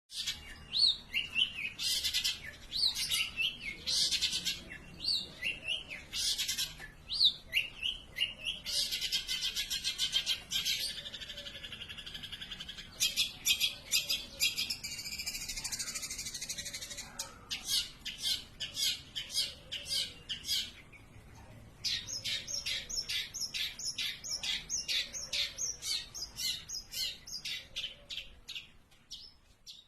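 Long-tailed shrike (cendet) singing without pause: a varied, scratchy song of quick notes and harsh buzzy stretches. In the last third it breaks into a fast, even run of repeated high notes, about three a second.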